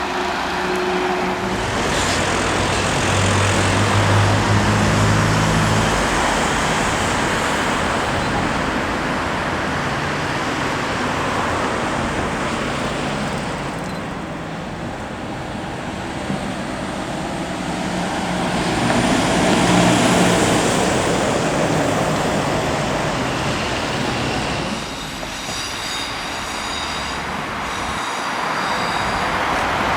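Train passing, with a steady rush of wheel and track noise and a low hum. A high whine rises briefly about two-thirds of the way through, and several high steady tones sound near the end.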